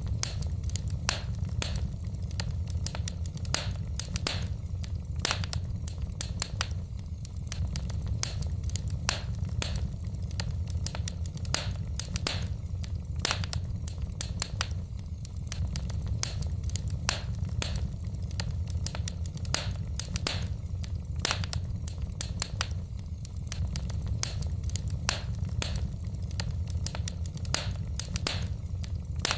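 Wood fire crackling in a fireplace: frequent sharp pops and snaps, several a second, over a steady low rumble.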